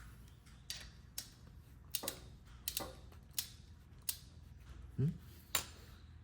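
Hand tools clicking on the motorcycle's primary oil drain plug as it is being tightened: about a dozen sharp clicks at irregular intervals roughly half a second apart. A short, low sound rising in pitch comes about five seconds in, the loudest moment.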